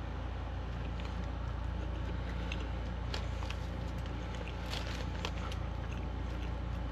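Close-miked eating of fries dipped in nacho cheese: soft chewing and food-handling clicks and crackles, mostly about three to five seconds in, over a steady low hum.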